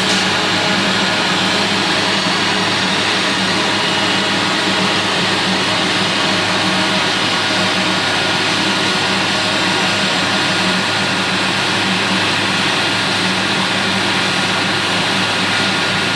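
Aircraft engines running steadily: a constant low hum with an even rushing noise over it, level throughout.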